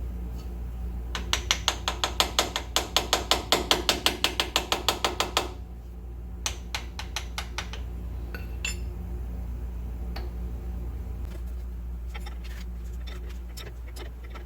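Hand ratchet clicking rapidly and evenly for about four seconds, several clicks a second, as it works a ball joint press; a few scattered clicks and taps follow. A steady low hum runs underneath.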